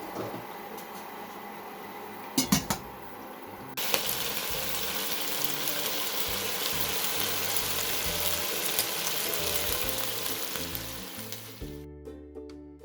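Boiled chicken pieces frying in hot oil in a pan. A steady sizzle starts suddenly about four seconds in, just after a couple of sharp knocks. Music comes in near the end.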